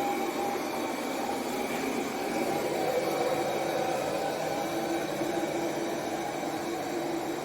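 Ultenic T10 Elite robot vacuum cleaner running, a steady whirring motor-and-fan noise with a constant hum.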